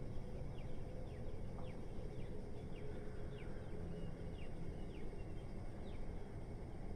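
Steady low rumble of city background noise, with a small bird giving a run of short, falling chirps about twice a second over it.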